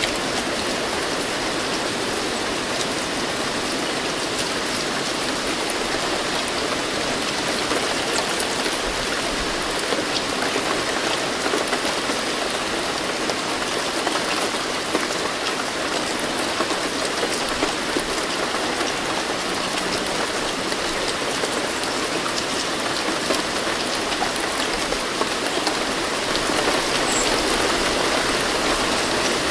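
Steady rain falling, an even hiss with scattered drop ticks, a little louder near the end.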